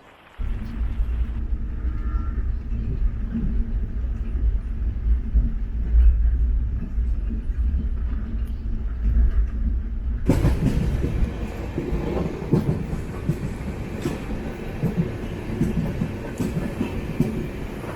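Express passenger train running on the line, heard from on board: a steady low rumble with wheels knocking over the rails. About ten seconds in the sound turns brighter and harsher, with more frequent knocks.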